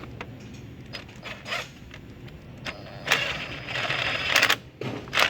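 Ratchet wrench tightening a car battery's terminal bolt: a few separate clicks, then about three seconds in a denser run of rapid ratcheting lasting over a second.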